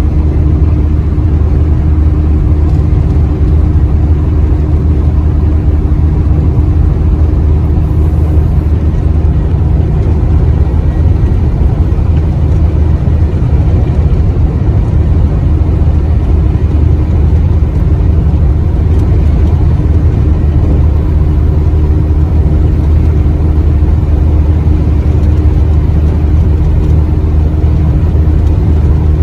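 Truck engine and road noise heard from inside the cab while driving at a steady speed: an even low drone with no change in pitch.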